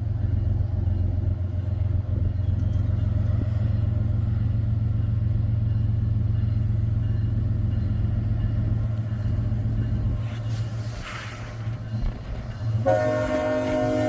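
Diesel locomotive engine running close by with a steady low drone that fades after about ten seconds. About a second before the end, a train horn sounds a steady multi-tone chord.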